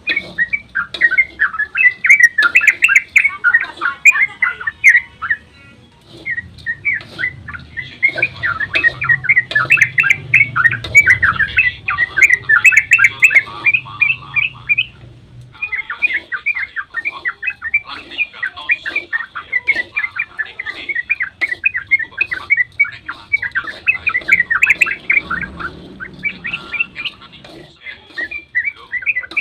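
Yellow-vented bulbul (trucukan) singing its long, rapid 'ropel' song: a dense run of short, bubbly, pitch-sliding notes. It breaks off briefly about six seconds in.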